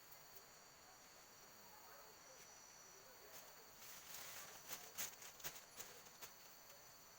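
Faint, steady chirring of forest insects, crickets among them, holding several high tones. A short patch of close clicks and rustles comes about four to five seconds in.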